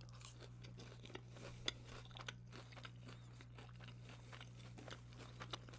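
Close-miked chewing of a breaded fried chicken strip: faint crunching and small wet mouth clicks at an uneven rate, over a steady low electrical hum.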